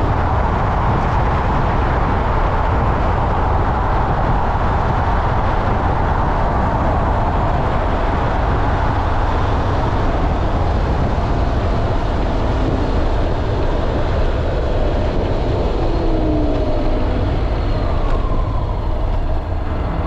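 Motorcycle riding at speed: steady wind rush and road noise over a low engine rumble, with a few falling whines near the end.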